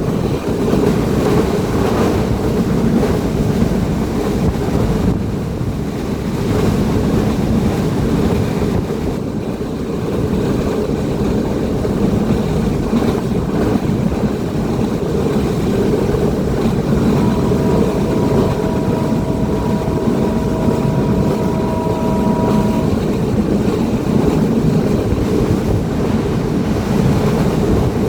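Sundarban Express passenger train running: a steady, loud rumble. Past the middle, a faint two-note tone is held for about six seconds.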